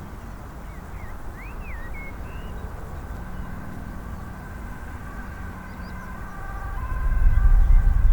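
Town ambience: a steady low traffic rumble with a few bird chirps in the first couple of seconds and a distant wavering siren in the middle. About seven seconds in, a deeper, louder rumble swells up.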